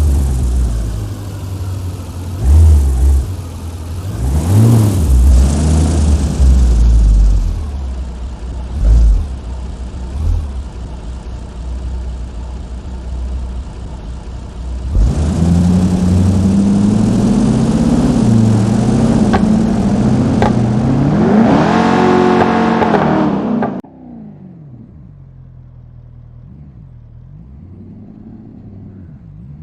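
Cars driving off and revving their engines, with several loud throttle blips in the first third. From about halfway a loud engine pass follows, its note revving up and back down near the end, then the sound drops away suddenly to a quieter engine running.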